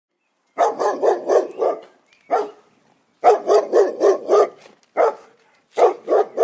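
A dog barking in quick runs of several barks, about four a second, broken by short pauses and single barks. It starts about half a second in.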